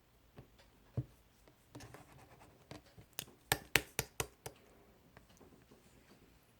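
Close-up handling noises: scattered light taps and scratches, then a quick run of sharper clicks a few seconds in.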